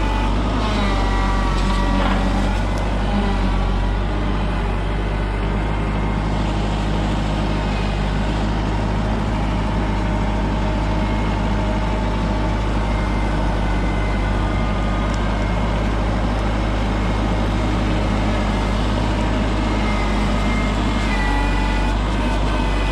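Kubota tractor's diesel engine running steadily, a constant low drone.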